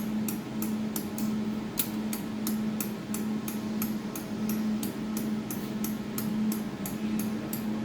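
Jewelry laser welding machine humming steadily, with even ticking about three times a second.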